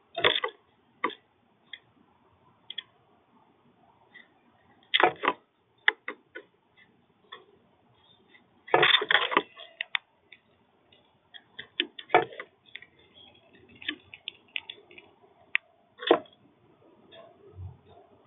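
Irregular taps and knocks at a bird feeder as birds land and peck at seed. Single clicks alternate with short rattling clusters, the longest about nine seconds in.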